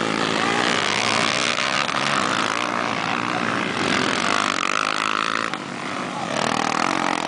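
Motocross bike engines running at high revs, the pitch rising and falling as riders work the throttle.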